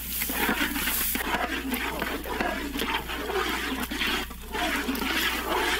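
Chopped tomatoes and greens sizzling in oil in a large wide cooking pan as a ladle stirs them: a dense, wet crackle with many small clicks.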